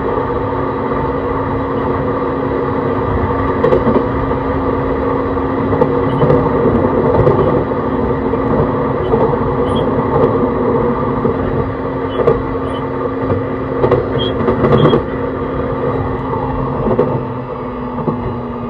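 Running sound of a JR East E131 series 600 electric multiple unit with a Hitachi hybrid SiC inverter drive: steady rumble of the wheels on the rail with a steady whine over it, and a few short clicks from the track in the middle. Near the end the whine steps slightly lower and the sound gets a little quieter.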